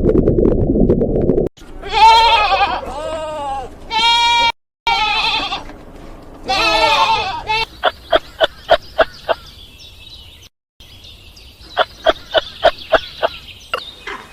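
A goat bleating: about five wavering calls in a row, starting after a rough low noise at the very beginning. Then come two runs of fast clicks over a high-pitched tone, with a brief break between them.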